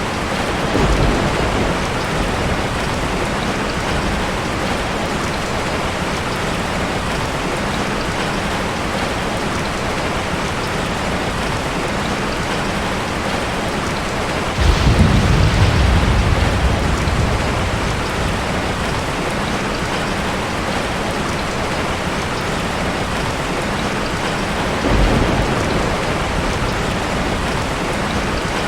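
Heavy rain drumming steadily on a metal (tin) roof, with thunder rumbling three times: briefly about a second in, loudest and longest about halfway through, and again near the end.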